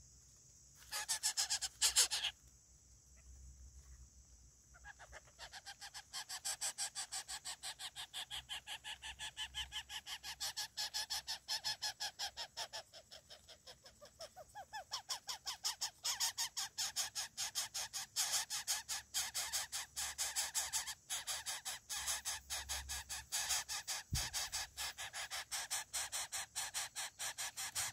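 Coucal chick begging for food: a long run of rapid, raspy, evenly repeated calls, several a second, starting about five seconds in, after two short loud noisy bursts near the start.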